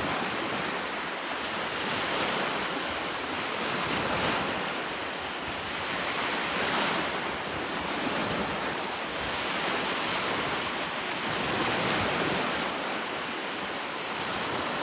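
Sea waves breaking and washing in, a continuous rush of surf that swells and eases every few seconds.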